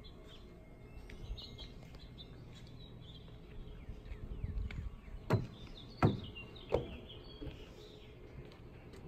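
Wild birds chirping and calling, with three loud, sharp thumps in a row, about two-thirds of a second apart, about halfway through.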